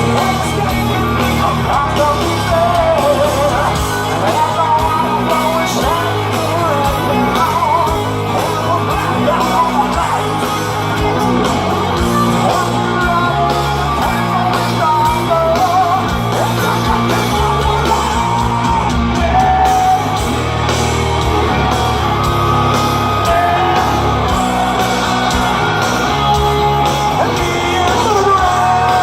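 Heavy metal band playing live at high volume, with a singer's melodic vocal line over a steady pounding band accompaniment, and shouts rising above it.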